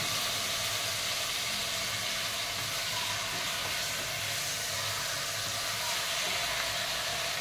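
Chicken pieces and onion frying in an open aluminium pressure-cooker pan, a steady sizzling hiss.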